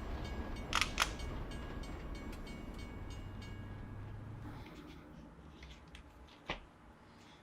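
Kato N scale Doctor Yellow Shinkansen model train running on its track, a steady hum with a faint motor whine that fades away over the first few seconds. Sharp clicks come twice about a second in and once more near the end.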